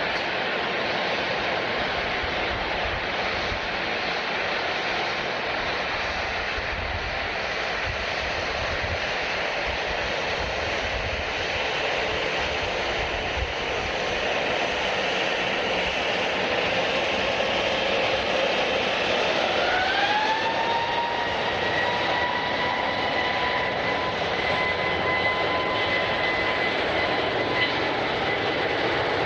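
Jet airliner engines running with a steady rushing roar; about two-thirds of the way in, a turbine whine rises in pitch and then holds steady as the engines spool up.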